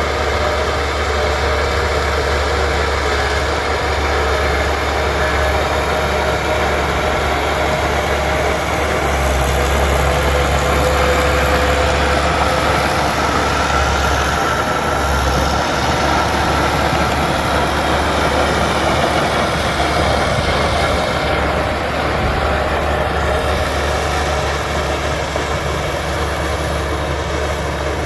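Bulldozer's diesel engine running steadily, with a steady higher whine over the low engine note, growing a little louder about ten seconds in.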